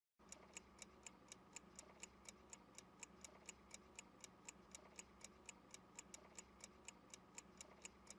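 Faint clock-ticking sound effect, about four even ticks a second over a low steady hum: a countdown timer giving the learner time to answer.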